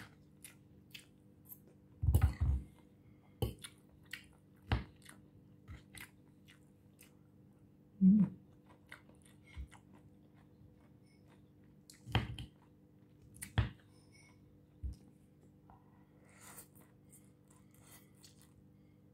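Close-up chewing and crunching of fresh lettuce salad, with scattered short sharp clicks from a metal fork against the plate and a few louder thumps.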